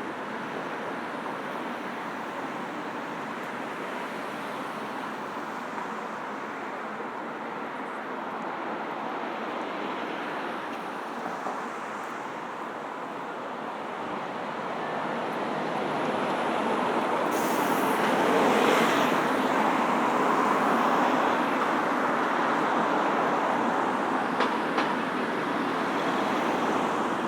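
Steady city road traffic. It grows louder for several seconds past the middle as a vehicle passes close, with a short hiss as it begins to swell.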